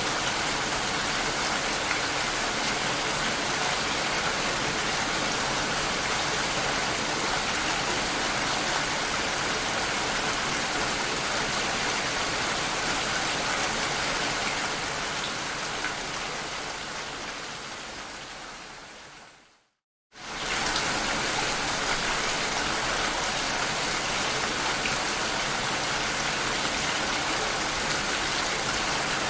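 Steady rain heard through a glass door, an even hiss of drops. About two-thirds of the way through it fades away to a moment of full silence, then comes back at full level all at once.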